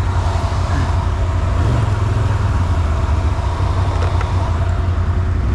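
ATV engine running steadily at idle, a constant low drone with no revving.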